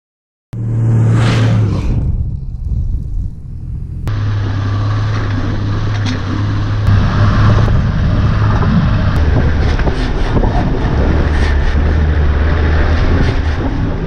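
Four-wheel drive's engine running steadily as it drives on sand, a low drone that drops slightly in pitch about nine and a half seconds in. The first half second is silent, and there is a brief rushing sound about a second in.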